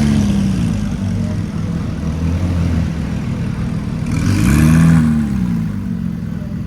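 Car engine running with a steady low rumble, revved up and back down twice: a short rev at the start and a louder one about four seconds in.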